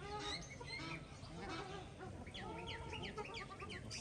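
Mixed flock of water birds at a pond calling over one another, with a run of quick high chirps from smaller birds a little over two seconds in.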